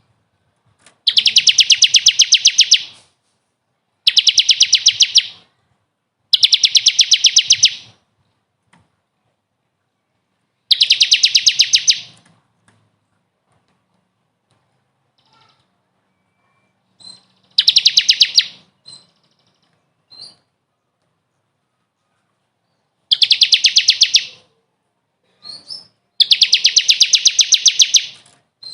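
A songbird's fast trill, repeated as a string of near-identical loud bursts of about one and a half to two seconds each with pauses between, as on a bird-song training recording.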